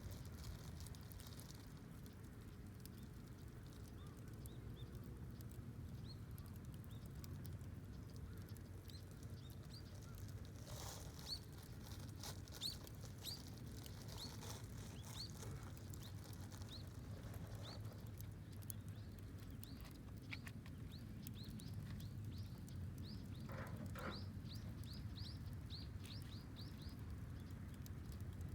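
Campfire crackling faintly over a low steady rumble, while a small bird gives many short, high, rising chirps, coming thickest in the second half.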